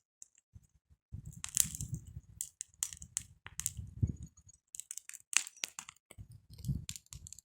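Campfire burning, its wood crackling and snapping in irregular sharp cracks, with several dull low rumbles in between.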